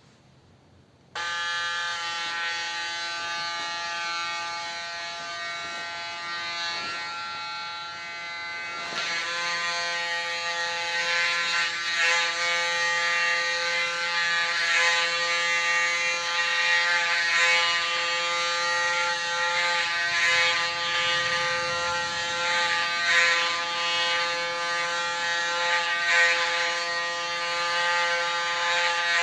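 Electric hair clipper, set to 0.8 mm, switching on about a second in and running with a steady buzz. From about nine seconds in the buzz roughens and wavers as the clipper is run over the scalp, cutting hair down to a shaved head.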